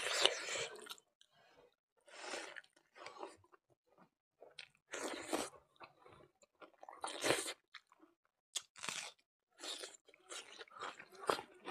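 Close-up chewing and crunching of a mouthful of buffalo innards curry with rice, in irregular bursts with short pauses between them.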